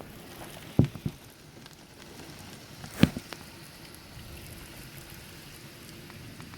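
Heavy thunderstorm rain falling steadily. A couple of sharp knocks come close together about a second in, and a louder single knock about three seconds in.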